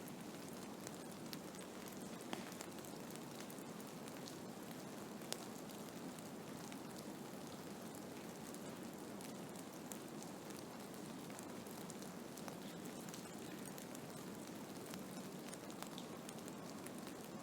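Blizzard ambience: a steady, even hiss of wind-driven snow, peppered with frequent faint ticks and two sharper ticks in the first few seconds.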